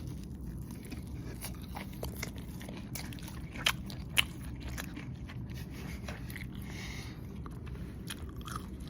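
Close-up biting and chewing of crunchy fried food, with scattered crisp crunches and two sharp, louder cracks a little under halfway through, over a steady low hum.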